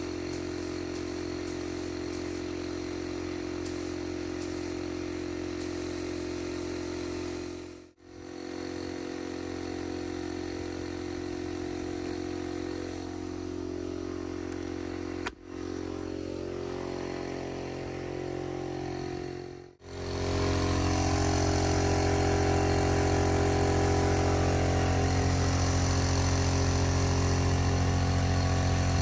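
Steady motor hum that keeps an even pitch, cut into several stretches with brief dropouts and louder over the last third.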